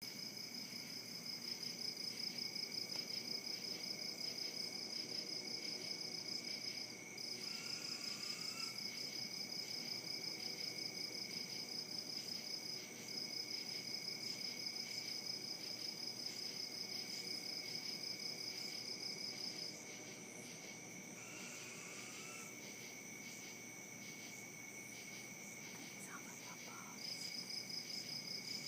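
Night insect chorus: a fast, high pulsing trill, like a katydid or cricket, runs in long bouts that stop and restart three times. Under it is a steady high drone from other insects, with two faint short calls, at about 8 s and 21 s.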